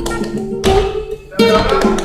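Flamenco guitar playing: plucked notes and sharply struck chords, with a short drop in loudness shortly before a chord is struck again about halfway through.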